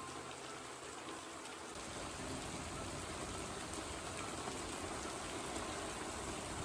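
Heavy rain pouring steadily, as a continuous hiss of falling water that grows fuller and deeper about two seconds in.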